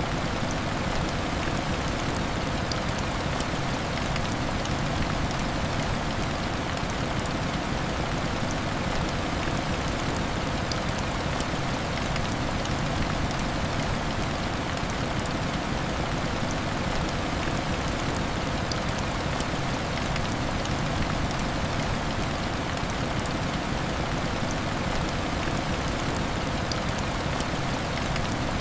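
Heavy rain falling steadily: an even, dense hiss scattered with many small drop ticks.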